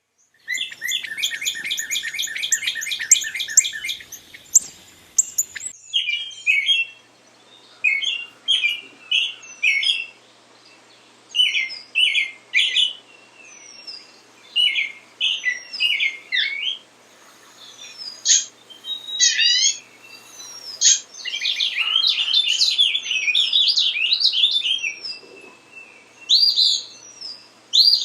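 Recorded songs and calls of perching songbirds, played one after another: a fast run of repeated high notes for the first few seconds, then, after a break, a different bird singing short chirping phrases again and again.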